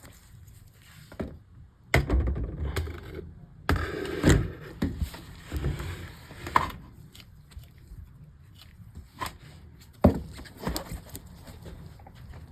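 A shipping package being handled and opened: irregular knocks and thuds with scraping and rustling of the packaging between them.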